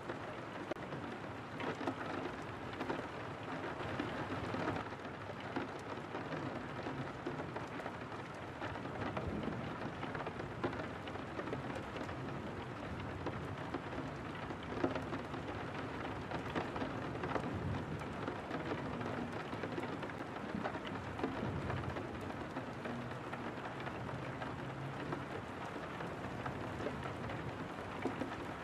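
Steady rain on window glass, with many small drops ticking against it and a low rumble underneath.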